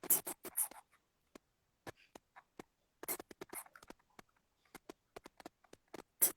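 Scattered sharp taps and clicks with a few short scraping rustles, irregular and spaced by brief gaps.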